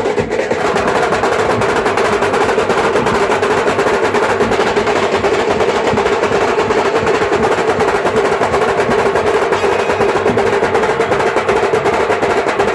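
Loud band music driven by fast, continuous drumming with rolls, an unbroken stream of strikes over a steady sustained note.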